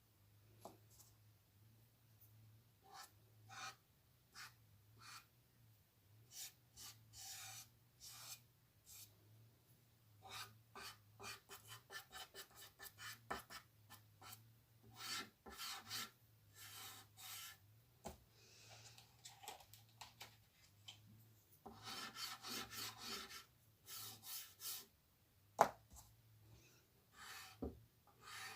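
Quick, irregular strokes of a drawing tool scratching across paper, with a denser spell of scribbling about three quarters of the way in and one sharp tap just after it.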